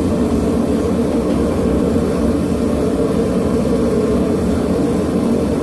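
Propane forge burner running steadily: a loud, even rush with no breaks.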